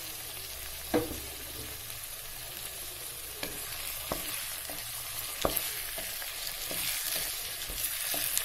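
Freshly added chopped tomatoes and onions sizzling in hot oil while a spatula stirs them, knocking against the pan several times, loudest about a second in. The tomatoes are being fried until they soften.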